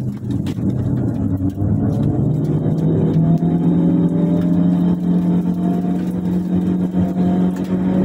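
Proton Saga FLX CVT's Campro four-cylinder engine heard from inside the cabin, pulling under acceleration. Its drone climbs slowly and steadily in pitch, with small rattles and clicks over it.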